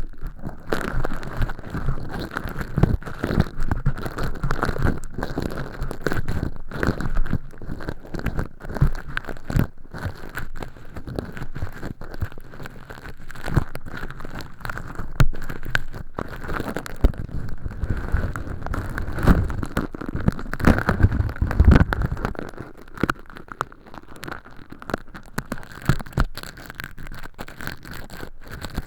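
Earpick scraping and scratching inside a silicone ear model's canal, peeling away thin-skin fake earwax: a dense, irregular run of short scratches and clicks, close and loud, easing off to lighter strokes about three-quarters of the way through.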